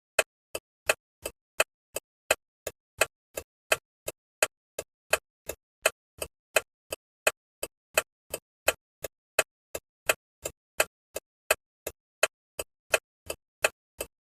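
A bus's turn-signal flasher ticking steadily, about three clicks a second, alternating louder and softer as the indicator switches on and off. The ticking stops at the end.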